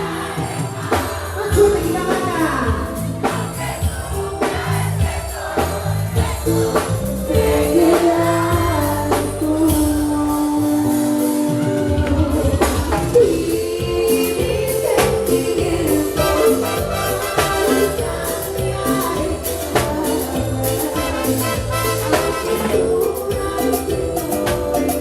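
A live band playing Latin cumbia music with percussion and a singer's voice over a steady beat.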